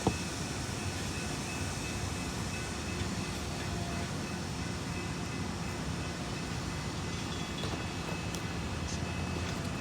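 Diesel freight train locomotive running with a steady low rumble as the train moves slowly, with one sharp knock right at the start.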